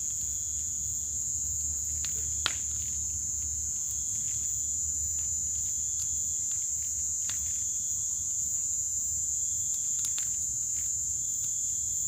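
A steady, high-pitched insect chorus with a low rumble beneath, broken by scattered sharp snaps and crackles from a burning bonfire. The loudest snap comes about two and a half seconds in.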